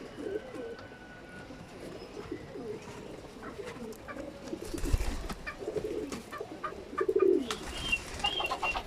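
Racing pigeons cooing, a string of low repeated coos that is loudest about seven seconds in, with a low thump about five seconds in.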